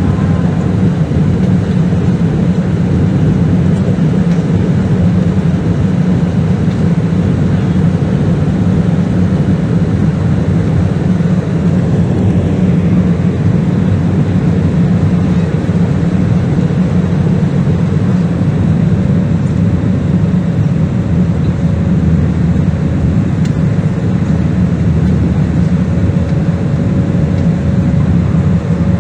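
Steady, loud engine and airflow noise of an airliner heard from inside the cabin during takeoff and climb, deep and even throughout. A faint steady tone joins about two-thirds of the way through.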